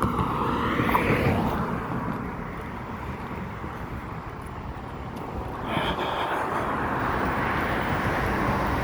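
Outdoor street noise of passing motor traffic: a vehicle passes near the start, and the traffic sound grows louder again about six seconds in.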